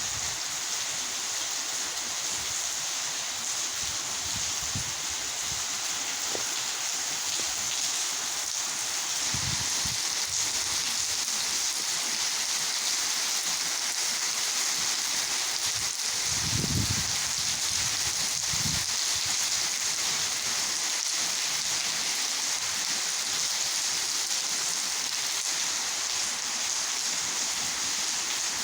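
Heavy rain pouring down in a steady, even hiss. A few brief low rumbles of wind buffet the microphone.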